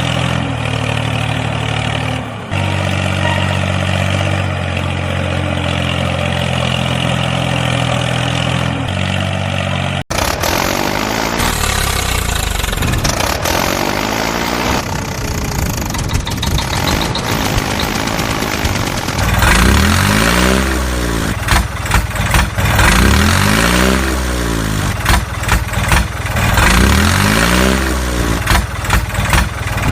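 A motor running steadily with a fixed hum that shifts pitch twice. About ten seconds in it cuts abruptly to a rougher run that rises and falls in pitch again and again, roughly every two seconds.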